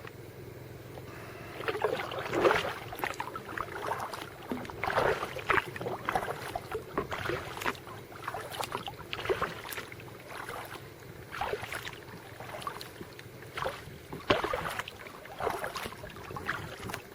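Kayak paddle blades dipping and pulling through lake water, one splashy stroke roughly every second or so, over a low steady rumble of water and wind.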